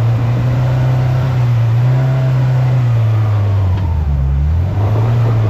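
Polaris RZR Pro R side-by-side's engine running under throttle on a dirt trail, its note dropping briefly about four seconds in as the throttle eases, then picking back up.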